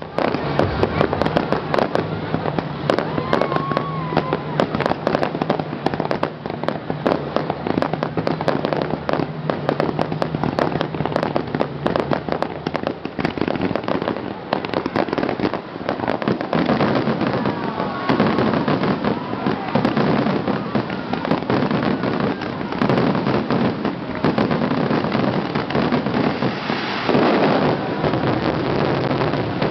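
Fireworks going off in quick succession, a dense stream of bangs and crackling without a pause.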